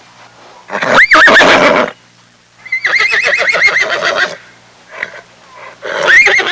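A horse whinnying three times. The first whinny comes about a second in, the second is longer with a rapidly quavering pitch, and the third starts near the end.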